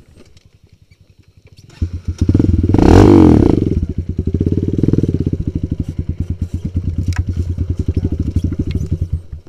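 Kawasaki KLX 150 G's single-cylinder four-stroke engine, faint at first, then opened up hard about two seconds in with a rev that rises and falls. It then runs loud and steady under throttle while pulling up a rocky dirt trail, and stops abruptly near the end.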